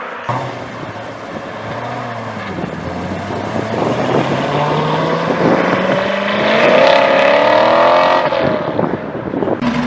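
A car engine accelerating hard, its pitch climbing steadily for several seconds, then cutting off sharply as the driver lifts off about eight seconds in.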